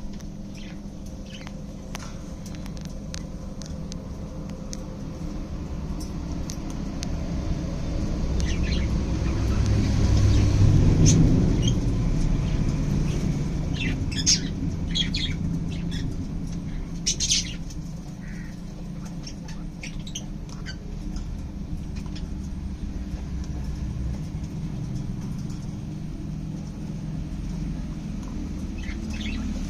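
Caged pet birds chirping and giving short squawks, with a burst of louder calls around the middle. Beneath them runs a steady low rumble that swells and fades about a third of the way in.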